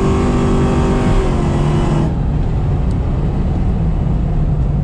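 Supercharged 4.6 L V8 of a 2003 Mustang Mach 1 running hard at high revs under acceleration; about two seconds in the higher-pitched engine sound cuts off suddenly, leaving a low steady drone.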